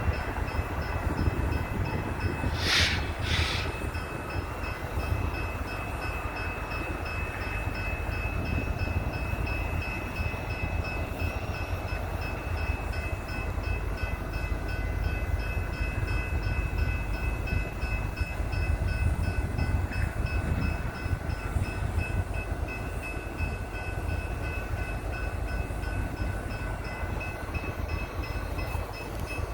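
Loaded coal train with BNSF SD70ACE diesel locomotives, a steady low rumble carrying a faint, steady high-pitched tone. Two short, sharp hissing bursts come about three seconds in.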